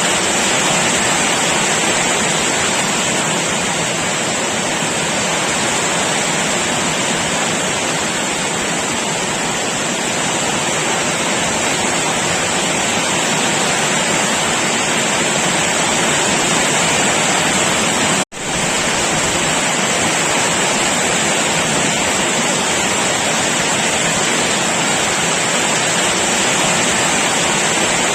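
Heavy rain pouring down in a steady, dense hiss. It cuts out for an instant about two-thirds of the way through, then carries on unchanged.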